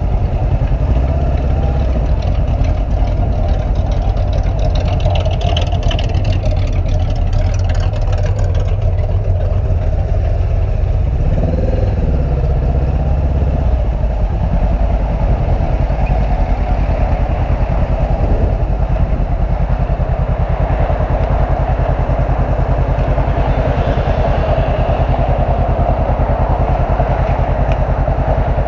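Motorcycle engine running steadily, with a brief shift in engine pitch about halfway through.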